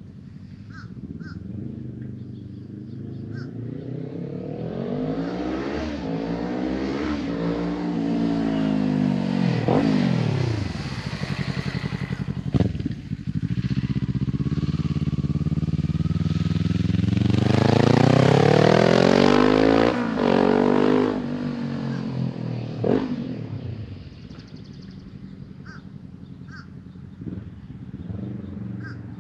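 Kawasaki Ninja 400's parallel-twin engine, breathing through an Akrapovic carbon-fibre slip-on exhaust, pulls away and accelerates through the gears. Its pitch climbs and drops back at each upshift. It is loudest as the bike passes about two-thirds of the way through, then fades, with faint bird calls at the start and end.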